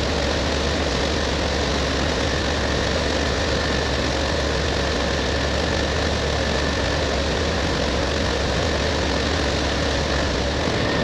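Straight-piped Peterbilt 389 semi truck's diesel engine idling steadily, low and even, with a faint steady high whine over it.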